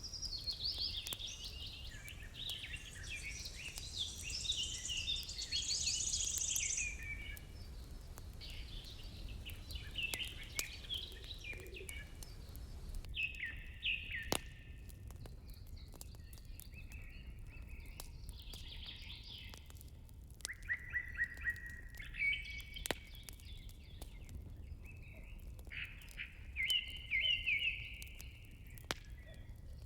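Songbirds singing in a run of short chirping phrases, busiest in the first seven seconds, with a few sharp crackles from a wood fire and a steady low rumble underneath.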